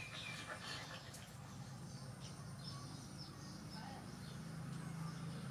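Quiet background with faint, scattered bird chirps over a low steady hum.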